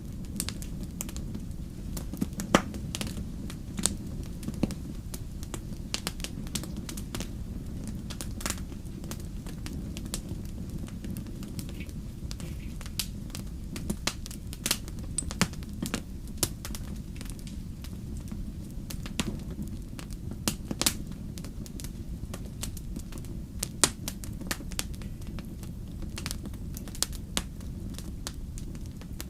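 Wood fire crackling: frequent irregular snaps and pops, a few much louder than the rest, over a steady low rumble.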